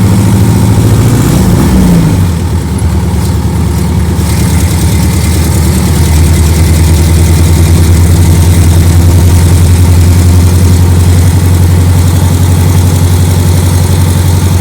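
Buggy engine running as it drives along, loud and steady. The engine note shifts and the loudness dips briefly about two seconds in, then holds an even drone.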